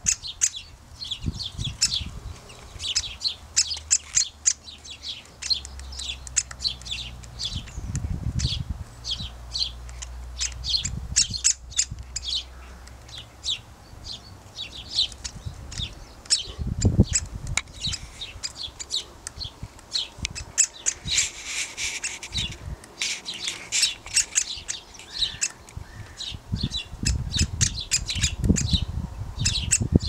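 Birds calling: a dense run of short, sharp, high-pitched chips, several a second, with low rumbles now and then.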